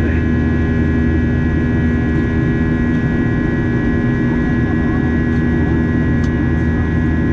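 Steady cabin noise of an airliner in flight: a loud, even engine drone and airflow rush with a constant high whine.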